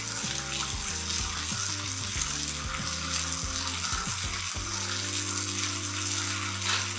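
Peach halves sizzling cut side down in an oiled griddle pan over high heat, a steady frying hiss.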